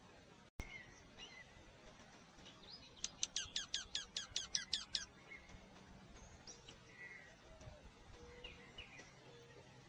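A songbird singing a rapid series of about a dozen steeply falling notes over two seconds, among soft scattered chirps from other birds. A brief dropout and a click come about half a second in.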